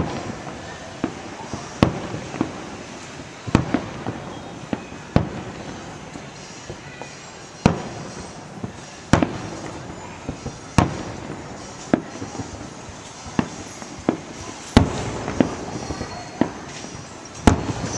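Aerial fireworks bursting: sharp bangs at irregular intervals, roughly one a second, over a continuous background haze.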